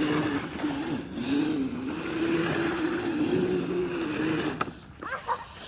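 Electric mini dirt bike motor whining, its pitch rising and falling with the throttle, over a rushing noise. It cuts off suddenly about four and a half seconds in.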